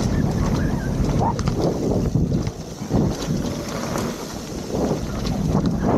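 Wind buffeting the microphone as a rough, fluctuating rumble, with brief snatches of a voice.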